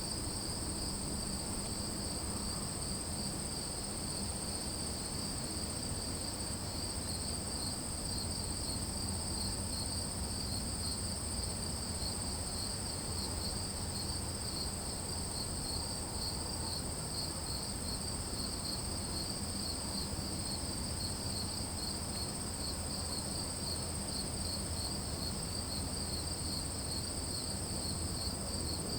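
A chorus of crickets and other insects singing: one continuous high-pitched trill, with a lower fast-pulsing chirping under it, over a faint steady low hum.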